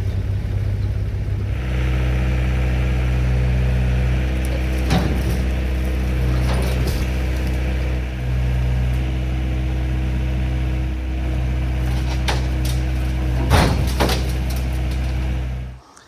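1972 Chevrolet C50 dump truck's engine running steadily, picking up slightly about a second and a half in, with several sharp knocks and clunks as the truck moves. The engine sound cuts off suddenly near the end.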